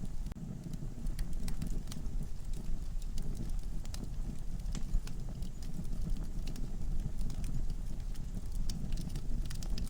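Wood fire burning in a fireplace: logs crackling with sharp, irregular pops over a low, steady rumble of flame.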